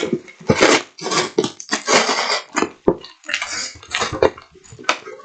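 Sellotape being peeled and torn off a cardboard parcel by hand, with the cardboard rustling: a string of irregular tearing and rustling noises with a few sharp knocks.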